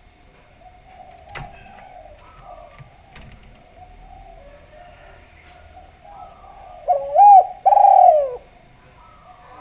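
Spotted dove (derkuku) cooing: soft coos throughout, then two loud coo notes about seven seconds in, the second sliding down in pitch.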